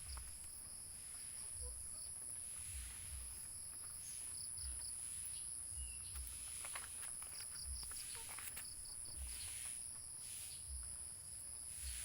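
Insects droning steadily at a high pitch while crickets chirp in short pulsed groups. A few faint clicks and rustles are scattered through.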